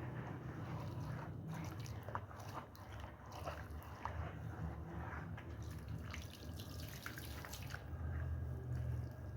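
Water dripping and splashing, with many small scattered wet clicks over a low steady hum.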